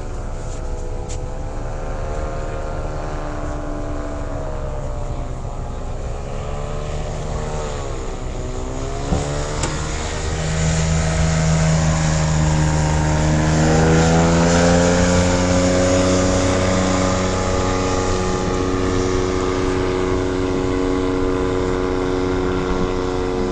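Off-road vehicle engine running, its pitch rising and falling with the revs, then getting louder and holding a higher, steady pitch from about ten seconds in.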